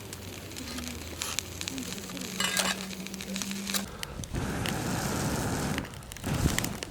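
Frozen champon sizzling in a cooker set over a campfire, with small crackles and ticks from the fire; the sizzle grows louder for a couple of seconds past the middle.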